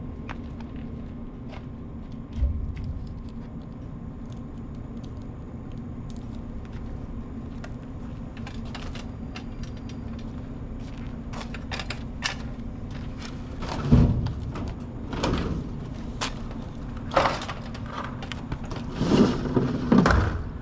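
Soda bottles and cases knocking and clattering as they are handled and set down, with a single knock early and a run of louder knocks and rattles in the last seven seconds, over a steady low hum.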